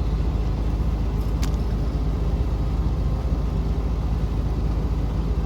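Semi-truck diesel engine idling steadily, a low even rumble, with one sharp click about a second and a half in.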